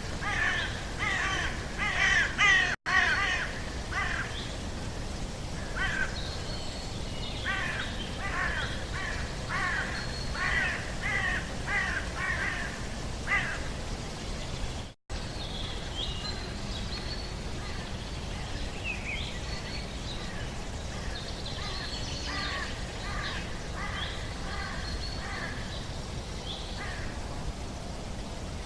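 Birds calling in quick series of short calls, dense in the first half and sparser and higher later, over a steady background noise. The sound cuts out briefly twice, about three seconds in and about halfway through.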